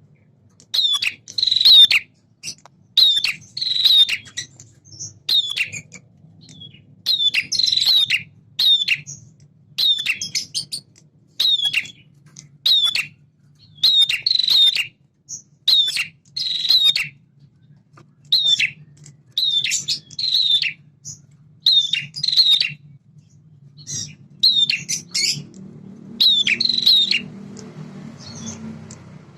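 Male prinia (prenjak) singing: short, sharp chirping phrases repeated about once a second, some in quick pairs. A low hum comes up under the song near the end.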